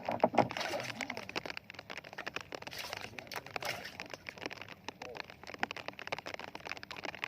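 Rain pattering on a surface close to the microphone: dense, irregular taps throughout.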